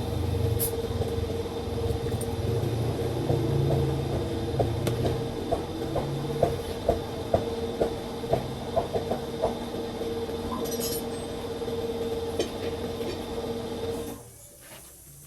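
A motor running steadily with a constant hum and low rumble, a quick run of metallic clicks partway through, then it stops abruptly near the end.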